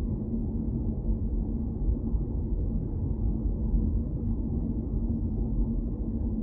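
Car being driven: a steady low rumble of road and engine noise with a constant low hum running through it.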